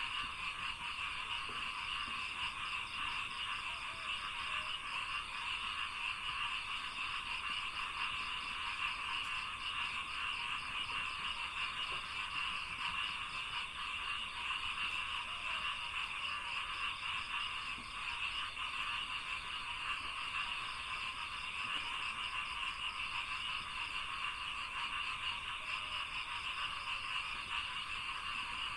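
Dense, steady chorus of many frogs calling at once in a rice field, with a faster, higher pulsed trill running above it.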